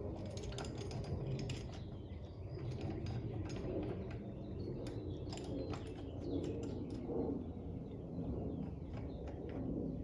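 Light metal clicks and scrapes of a bearing splitter being fitted around a carrier bearing race left stuck on a differential carrier.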